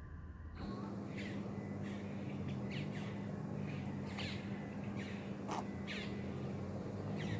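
Wild birds calling: a string of short, sharp calls that sweep downward in pitch, several every second, over a steady low hum.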